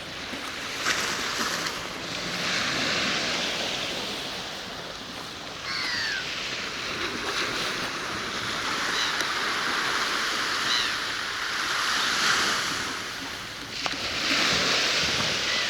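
Sea waves washing onto the shore, the hiss swelling and fading every few seconds.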